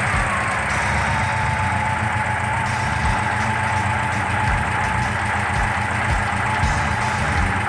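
1969 VW Kombi's 1700 cc air-cooled flat-four engine idling steadily, with a thin whine over it that drops slightly in the first second as the engine settles after a rev.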